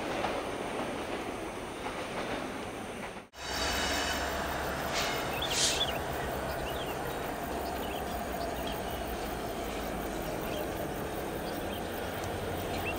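Empty coal hopper wagons rolling over the rails, then, after an abrupt cut, two CC 205 diesel locomotives hauling an empty coal train approach on a curve with a low, steady engine drone. A few short high-pitched wheel squeals sound from the curve, the strongest a couple of seconds after the cut.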